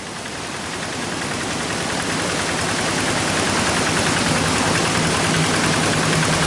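Paddy-field tractor engine running, growing steadily louder.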